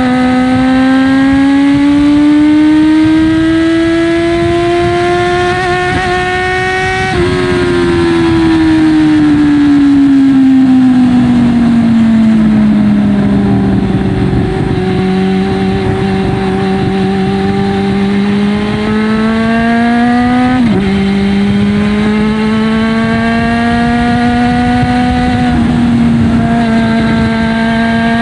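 Honda CB400 Super Bol D'or Spec III inline-four engine running through a Yoshimura titanium 4-into-1 full exhaust. Its note climbs steadily in pitch for about seven seconds, then falls away and holds low. About twenty seconds in the pitch drops sharply, then climbs again and holds.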